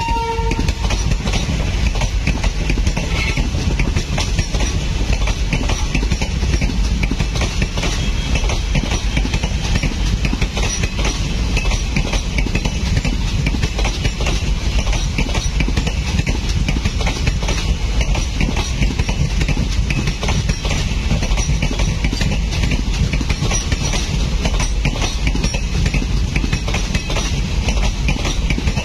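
Long Indian Railways passenger train rolling past on the adjacent track, a steady rumble of wheels on rail with dense clattering over the joints.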